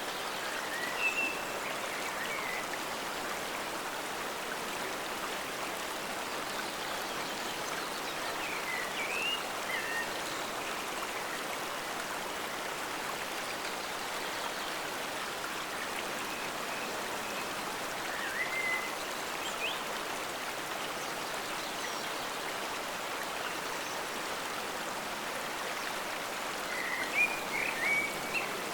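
Forest stream flowing, a steady rush of running water. A few short high chirps come through it now and then, in a small cluster near the end.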